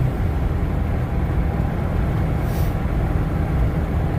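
Steady road and engine noise inside a truck's cab while driving.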